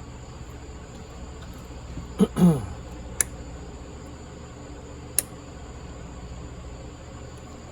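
A short grunt-like sound whose pitch falls, about two seconds in, then two sharp clicks about two seconds apart, over a steady low hum.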